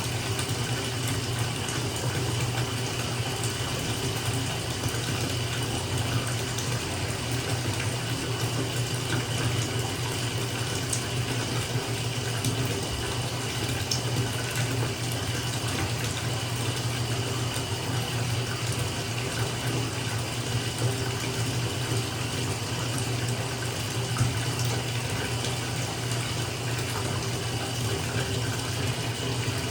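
Bathtub filling from a running tap: a steady stream of water pouring into the bathwater, with a low rumble and small splashes.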